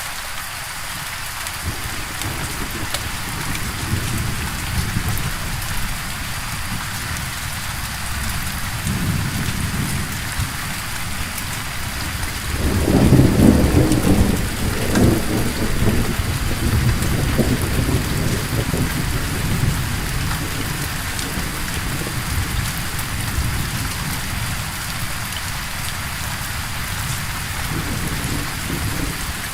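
Steady rain falling with rolling thunder. The low thunder rumble swells to its loudest roll around the middle, then keeps rumbling more quietly.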